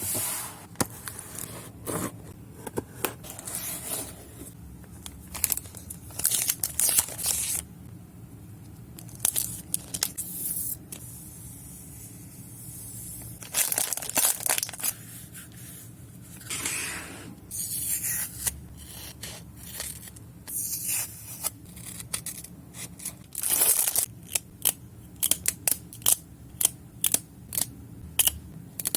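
Paper being handled for journaling: several long peeling or tearing rasps, each about a second, between many sharp snips and clicks, which come thick and fast near the end.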